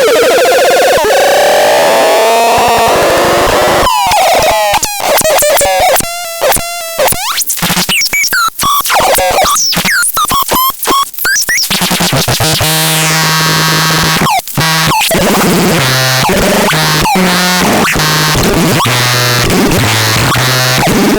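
Loud, harsh electronic synthesizer noise with sweeping pitch glides and choppy stutters. About twelve seconds in it changes to a repeating pattern of stepped low bass notes under noisy upper tones.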